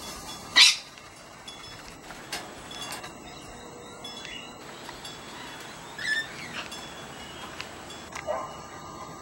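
Sulphur-crested cockatoo giving one short, loud, harsh screech about half a second in, followed by a couple of fainter, shorter calls later on. Faint, steady ringing tones sound in the background.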